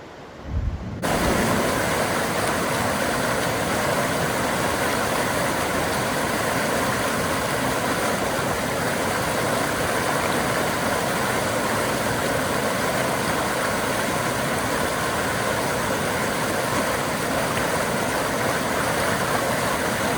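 Steady, loud roar of rushing water from a fast mountain creek or waterfall, starting abruptly about a second in and holding even throughout.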